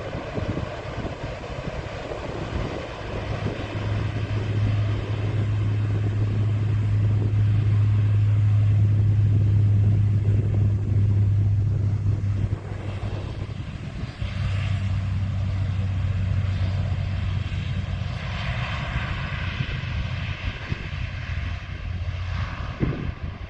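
Aircraft engines running: a steady, loud low drone that swells to its loudest about halfway through, dips briefly, then carries on a little quieter.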